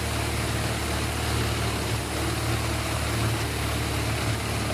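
Whole tree chipper running steadily, its engine making a constant low hum with an even mechanical noise over it.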